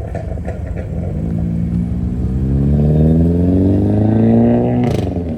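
Car engine revving, its pitch and loudness climbing steadily for about four seconds, then dropping sharply near the end.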